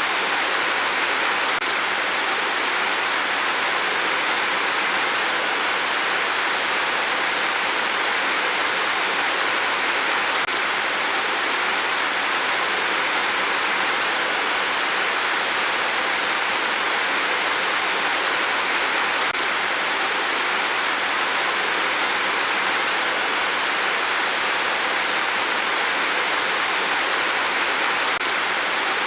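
Steady rain falling, a dense even hiss with no single drops or gusts standing out.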